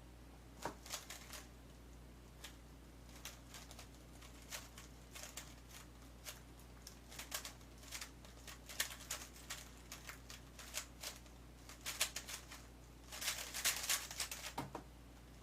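A 3x3 speedcube being turned fast, its plastic layers clicking in quick irregular runs, with the densest flurry near the end.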